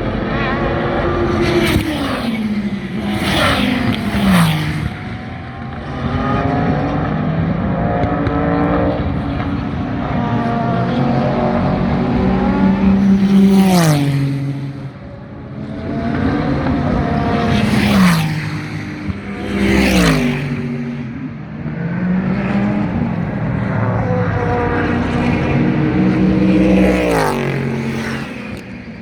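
SUPER GT race cars passing close at speed one after another, about seven times, each engine note dropping sharply in pitch as the car goes by. Other engines keep revving up and down through the gears between passes.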